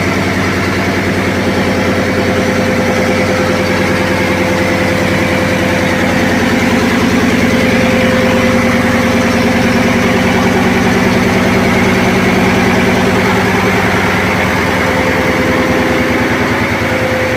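Diesel machinery in a ship's engine room running steadily: a loud, constant din with a steady hum that swells slightly in the middle.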